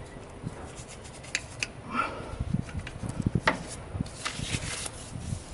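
Brush scrubbing on engine-bay parts: irregular rubbing with scattered clicks and knocks, and a short hissy scrub about four seconds in.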